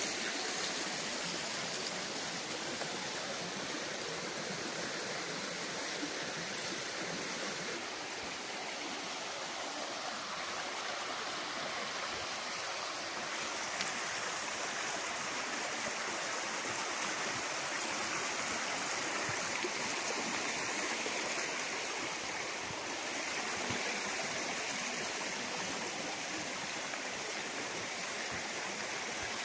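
Mountain stream water rushing steadily, an even unbroken rush.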